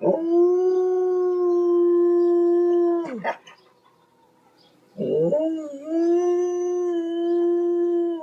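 A dog howling: two long howls, each held on one steady pitch and dropping off at the end, with a pause of about two seconds between them.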